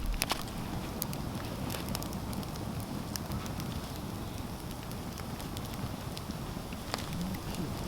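Wood campfire burning with a steady hiss and scattered sharp crackles and pops.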